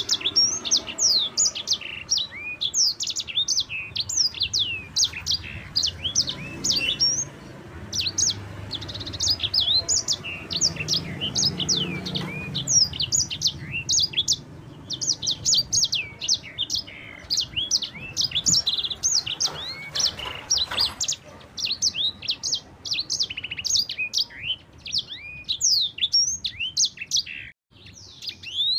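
Sanger songbird singing a long, continuous rolling song of quick high chirps and downward-sweeping notes, with a brief break near the end.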